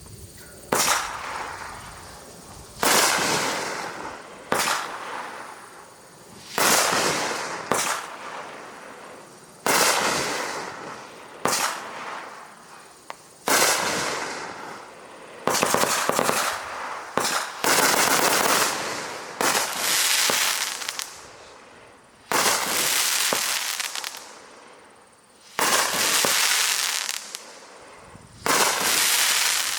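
A 500 g consumer firework cake firing shot after shot, a sudden report every second or two. Each shot fades out as a rushing noise, and a few run on for several seconds.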